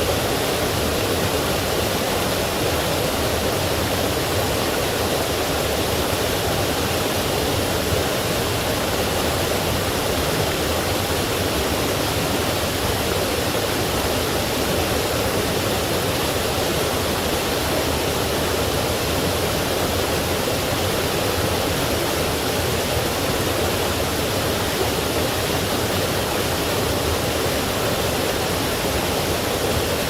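Forest stream and small waterfall flowing steadily, a constant rushing of water.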